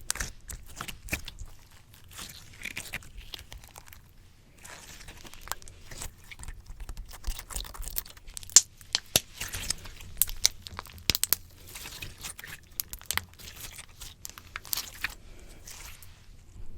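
Slime being squished and pulled against a microphone: irregular sticky pops, clicks and crackles, with a brief lull about four seconds in.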